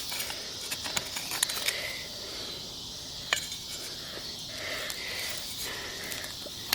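A few scattered clicks and scrapes of a shovel digging in soil around a buried metal plate, over a steady high hiss of insects.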